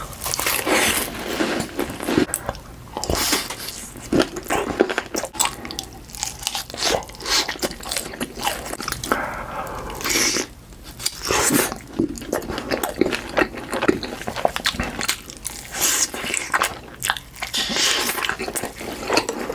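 Close-miked crunching and chewing of food, with irregular bites into something crisp, one crunch after another with short pauses.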